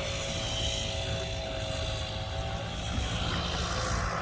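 Steady drone of a distant engine, holding an even hum, over a low rumble.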